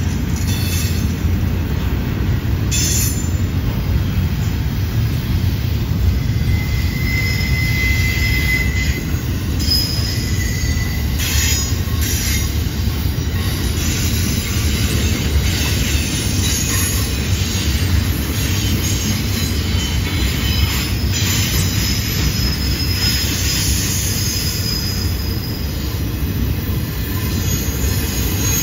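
Double-stack intermodal freight cars rolling past: a steady low rumble of steel wheels on rail, with brief high-pitched squeals now and then as the wheel flanges grind through the curve.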